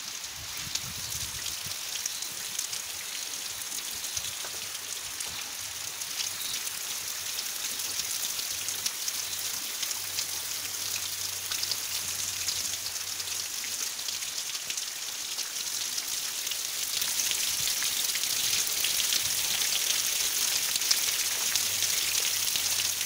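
Heavy rain pouring steadily, a dense patter of drops over a continuous hiss, growing somewhat heavier in the last few seconds.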